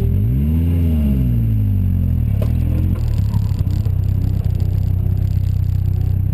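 Open-wheeled Seven-style sports car's engine revved up once and let fall back over about two seconds, then running steadily as the car pulls away slowly. A single click about two and a half seconds in.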